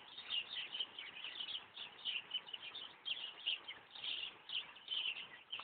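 Many small birds chirping at once, a dense stream of short, high overlapping chirps.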